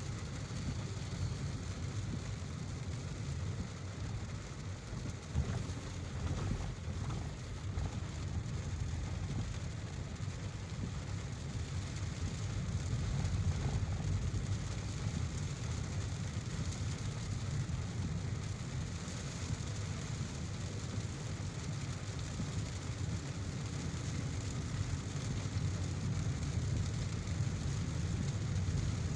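A car driving in heavy rain: a steady low road rumble with the hiss of rain over it, swelling a little about halfway through.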